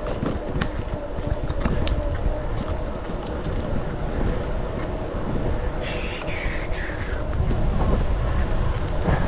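Wind buffeting the microphone of a camera on a moving bicycle, a steady low rumble mixed with tyre and road noise. A short, higher chirping sound comes about six seconds in.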